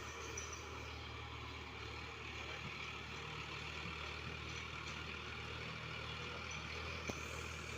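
Diesel engine of a Sonalika DI-50 RX tractor running steadily, with a single sharp click about seven seconds in.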